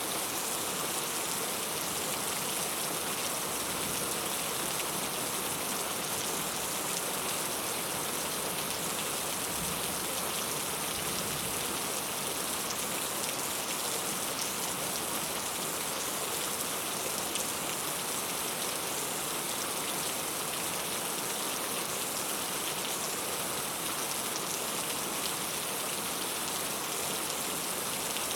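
Steady rainfall, a continuous hiss with many fine drops pattering on a surface.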